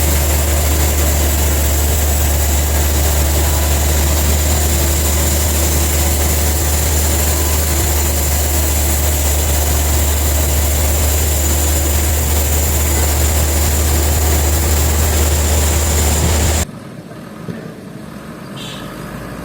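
Sawmill machinery running with a steady, loud low hum and a thin high whine. About three seconds before the end it cuts off suddenly, leaving a much quieter background.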